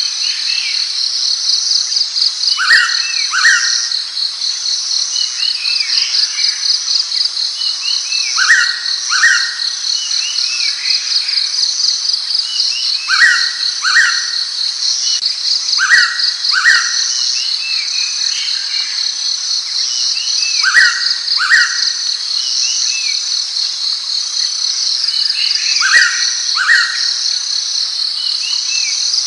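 Blue-winged pitta giving its loud double whistle, two short notes about half a second apart, repeated six times, every three to five seconds. A steady, rapidly pulsing insect chorus runs high behind it.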